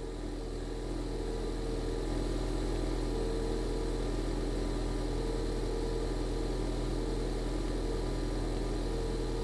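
A Ford Mustang EcoBoost's 2.3-litre turbocharged four-cylinder idling steadily, heard from inside the cabin as a low, even hum.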